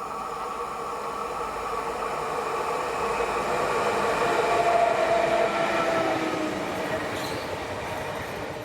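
A train passing. Its rolling noise builds to a peak about halfway through and then fades, with several steady high tones running through it.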